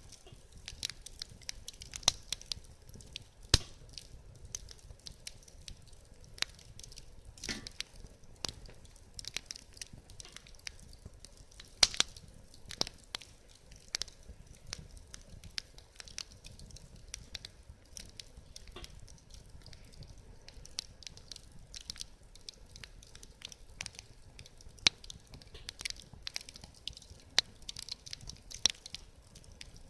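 Wood fire crackling in a fire pit: irregular sharp pops and snaps, several a second, over a low hiss, with a few louder snaps.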